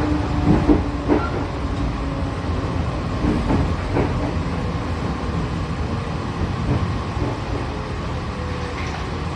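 Train running: a steady low rumble, with a few knocks in the first few seconds.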